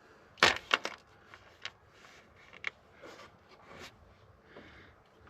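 Hard plastic parts being handled: a quick cluster of sharp clicks and knocks about half a second in, then scattered lighter clicks and soft rustling.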